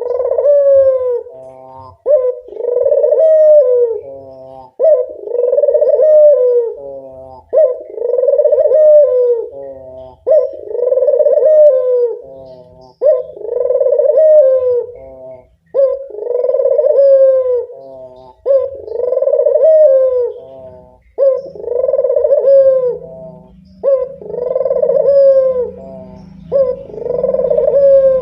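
A local puter dove (ringed turtle dove) cooing over and over: a loud, rolling coo that rises and falls away, repeated about every two and a half to three seconds, eleven times.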